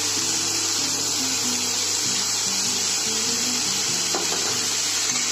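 Sliced onions, tomatoes, garlic, ginger and green chillies sizzling steadily in hot oil in a kadai as they are stir-fried, with background music playing a simple melody of short notes.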